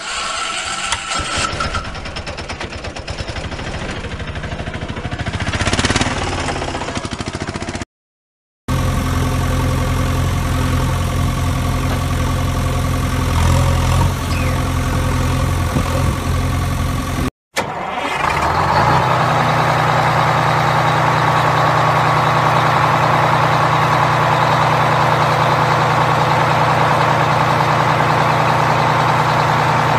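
Vehicle engine sounds in three edited stretches, broken by two short silences about eight and seventeen seconds in. The first stretch is rougher and more uneven, and the later stretches are a steady idle.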